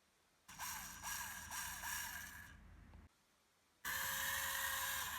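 Small electric motor and plastic gearbox of an RC model tractor whining in two runs. The first run starts about half a second in and cuts off suddenly about three seconds in, and the second starts abruptly just before four seconds.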